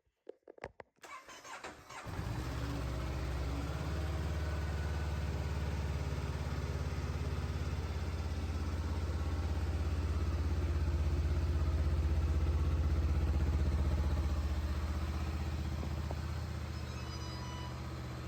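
Honda CBR500R's parallel-twin engine started: a few clicks, a brief crank by the starter, then it catches about two seconds in and idles steadily.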